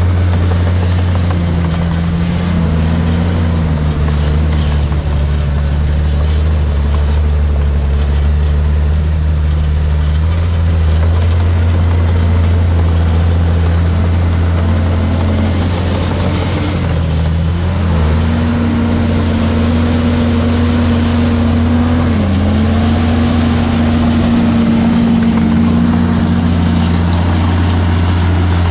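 Komatsu D51PX bulldozer's diesel engine running steadily under load, a deep drone with an engine note that shifts up and down in pitch a few times as the revs change.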